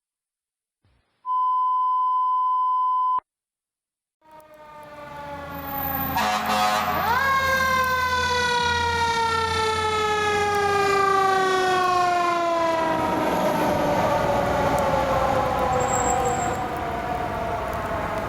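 A steady electronic beep lasting about two seconds. Then the fire truck's mechanical siren, a Federal Q2B, comes up in loudness, dips and winds back up, then coasts down in a long, slowly falling wail over the truck's engine.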